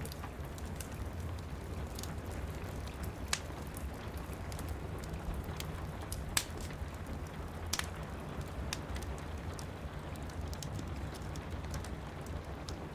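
Steady rain with a fireplace fire crackling, a few sharp pops standing out over the even hiss and rumble.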